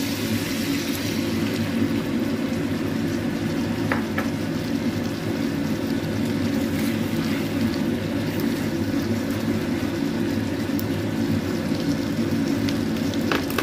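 Tofu, shrimp and vegetables sizzling in a nonstick frying pan as sauce is poured in and stirred with a plastic spatula, over a steady low hum. Two short knocks of the spatula against the pan, one a few seconds in and one near the end.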